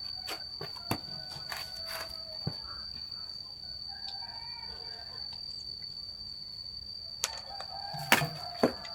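A rooster crowing faintly in the background, with a few sharp clicks and knocks and a steady high-pitched whine.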